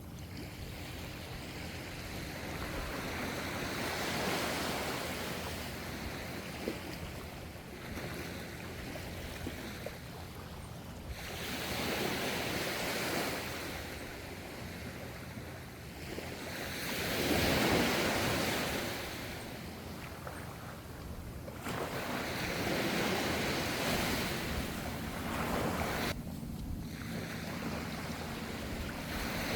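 Ocean waves washing onto the shore, the surf swelling and falling back every few seconds, with one larger wave breaking about halfway through, over a steady low rumble of the sea.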